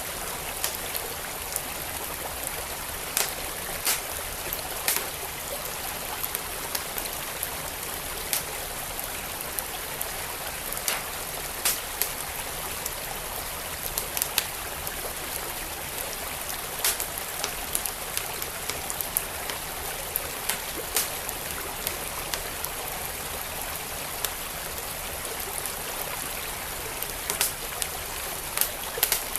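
Wood fire in a fireplace crackling with scattered sharp pops, over the steady rush of a flowing creek.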